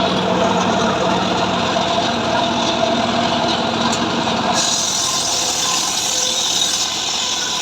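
Stihl MS 382 two-stroke chainsaw running steadily. Its engine pitch holds constant, and about four and a half seconds in a brighter hiss comes in.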